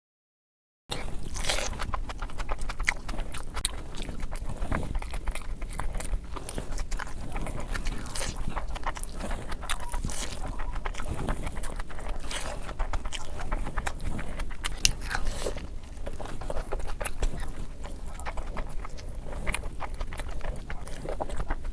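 Close-miked mukbang eating: wet chewing, biting and mouth clicks over rice curry and chicken, sped up to double speed so the clicks come thick and fast. It starts after about a second of silence.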